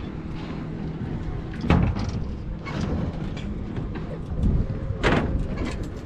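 Tour boat's engine running with a steady low rumble, with two knocks, about two seconds and five seconds in.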